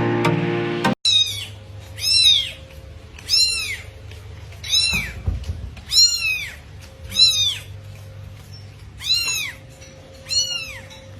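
A cat meowing over and over: about eight high meows, each rising then falling in pitch, roughly a second apart. Music plays for about the first second and then cuts off.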